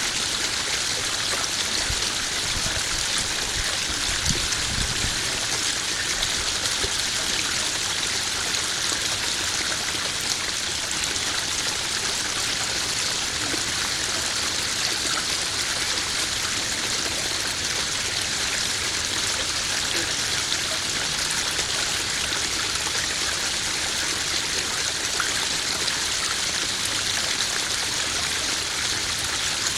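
Small waterfall splashing steadily into a koi pond, an even rush of running water.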